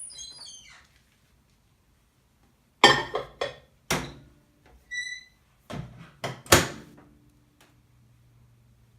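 Microwave oven being loaded and started: a few knocks and clicks, a single keypad beep about five seconds in, a loud thunk, then the oven's low steady hum as it runs.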